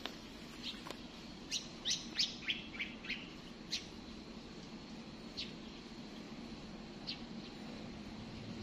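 A bird chirping: a quick run of short, sharp, falling chirps a couple of seconds in, then a couple of single chirps, over a steady low hum.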